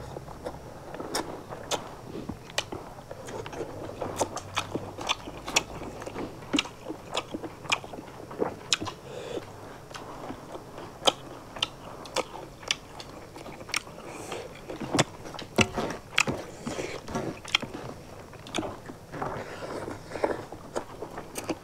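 Two people chewing and smacking their mouths while eating rice, fish curry and singju salad by hand: a steady stream of short, sharp wet clicks over soft chewing.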